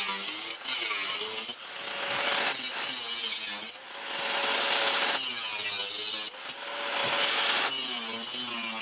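A power cutting tool cutting through rusted car-body sheet metal in bursts of a second or more with short breaks, its pitch wavering as it bites.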